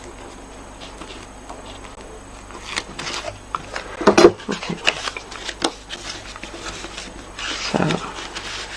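Card-stock panels and adhesive tape being handled on a craft table: scattered rustles and taps, with a cluster of knocks about four seconds in and a brief rustle near the end.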